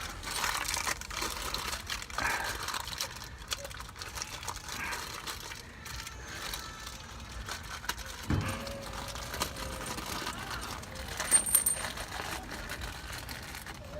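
New shock absorber's metal mounting hardware (collar and fittings) clinking and rattling as it is handled, with scattered light metallic clicks and a couple of louder knocks.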